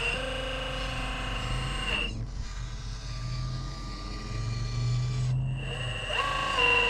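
Electric motor and gearbox of an RC scale crawler whining as it drives, with a steady high-pitched tone. The whine cuts out about two seconds in, leaving a low hum, and picks up again near the end.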